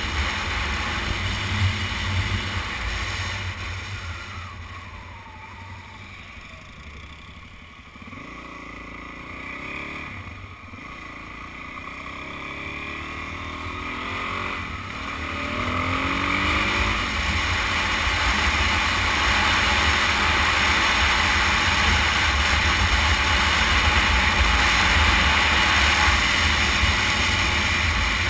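Suzuki DR-Z400's single-cylinder engine pulling away and revving up through the gears several times, with heavy wind rush on the helmet-mounted microphone that grows as speed builds.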